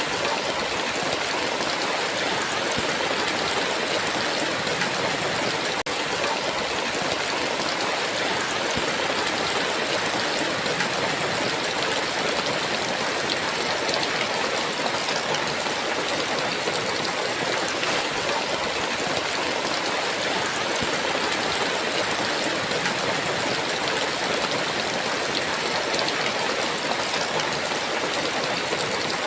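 Heavy rain falling steadily in a dense, even hiss, with no thunder.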